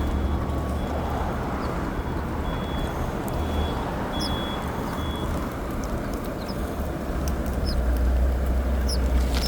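City street traffic: a steady low engine rumble of passing vehicles. A faint high electronic beep repeats through the first half, and a few short high chirps come near the end.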